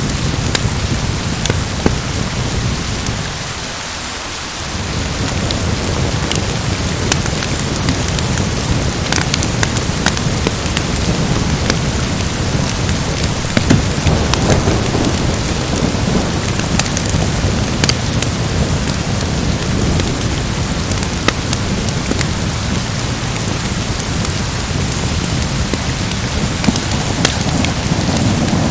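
Steady heavy rain with deep, rolling thunder rumbles that ease off briefly about four seconds in and swell again midway and near the end, with scattered sharp crackles from a wood fire.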